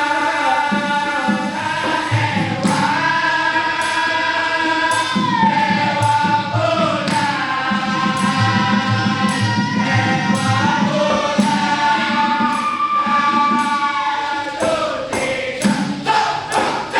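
Vocal group singing a Malay song in close harmony over a steady percussion beat. In the last couple of seconds the beat breaks up as the song ends and the audience starts cheering.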